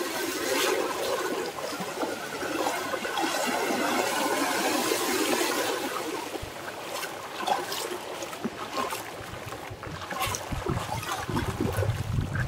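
Small waves washing up a sandy beach and draining back. The wash swells for the first few seconds, then ebbs away.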